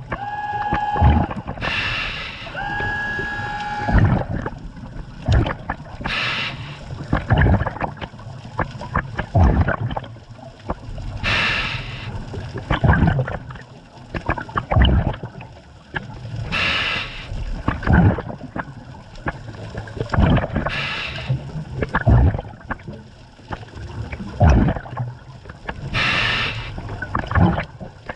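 Scuba diver breathing underwater through a regulator: a noisy rush of exhaled bubbles about every five seconds, with gurgling bubbles between breaths. Near the start a short steady whistle sounds twice.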